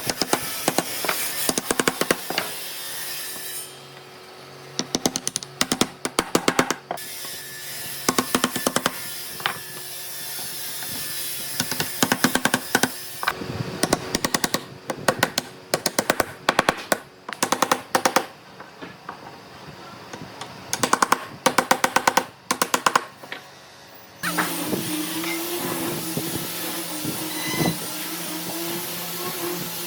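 Woodworking tools at work: bursts of rapid clicking and tapping, then about 24 seconds in a steady hiss with a low hum.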